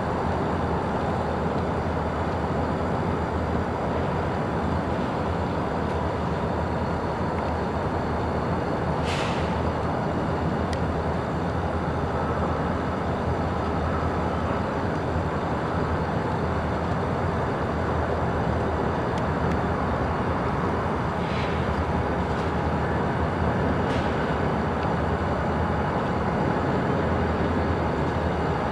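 Steady rumble of a freight switching move in a rail yard, a locomotive working with its cars. Three short high-pitched sounds stand out, about a third of the way in and twice more in the last third.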